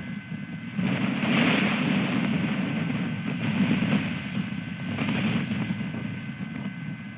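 Wind buffeting the outdoor nest-camera microphone in gusts, swelling about a second in and again twice later, over a faint steady electrical whine.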